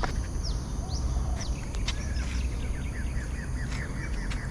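Several birds chirping and calling, with short falling whistled notes and, from about two seconds in, a quick run of repeated short chirps, over a steady low rumble.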